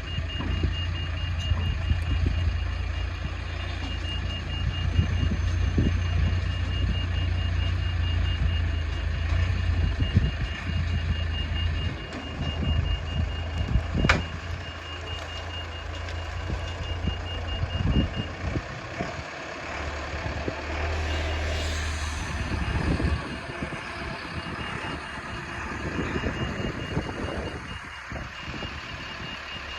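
Heavy vehicle's reversing alarm beeping rapidly and evenly over a diesel engine running. A single sharp clank is heard about halfway through. The beeping stops for a few seconds after that and then starts again.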